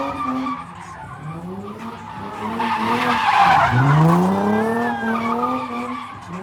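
A car engine revving hard, its pitch repeatedly climbing and falling, while the tyres screech as the car slides. The screech is loudest about three seconds in; the engine then drops low and climbs again.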